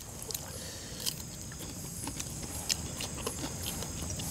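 People chewing and crunching crispy smashed fried chicken (ayam geprek) with rice, close to clip-on microphones: irregular small crunches, clicks and mouth sounds.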